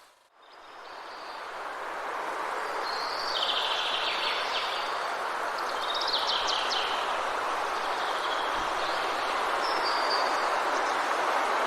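Steady rain in a forest, fading in from near silence at the start, with songbirds chirping and trilling over it.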